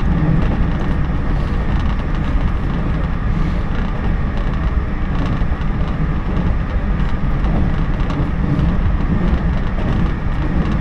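Running noise heard from inside a JNR 113 series electric train moving at speed: a steady, even rumble of the wheels on the rails and the car's body.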